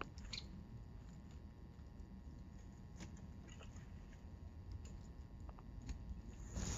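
A woodpecker pecking at wood: faint, irregular single taps spaced a second or so apart, not a rapid drumming roll.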